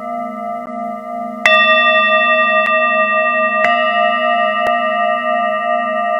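Singing bowls ringing in long sustained tones that pulse slowly as they beat. A bowl is struck about a second and a half in and another about two seconds later, each adding a brighter layer over the ringing.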